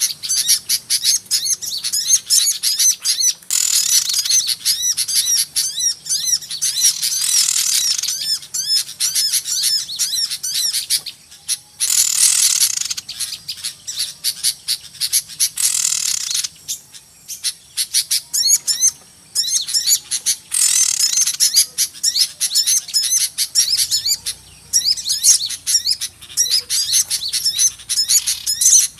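Lure-call recording of many small birds calling at once: rapid, high-pitched chirping and twittering with no break, swelling every few seconds into louder stretches of dense chatter. It is a noisy small-bird flock call played by bird trappers to draw small birds in.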